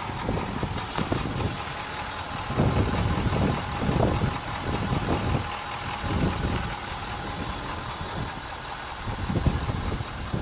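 Ford F-250 pickup engine idling, with uneven low rumbles of wind buffeting the microphone every second or so.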